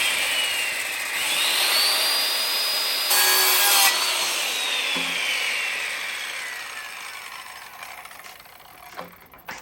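Electric saw cutting a wooden framing board: the motor's whine sags under load, climbs back to full speed as the blade comes through, then slides steadily down in pitch over about four seconds as the blade spins down after the trigger is released.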